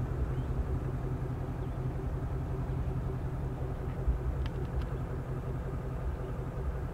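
Ford Mustang Shelby GT350's 5.2-litre flat-plane-crank V8 idling steadily, a low, even rumble, with a few faint light clicks about four and a half seconds in.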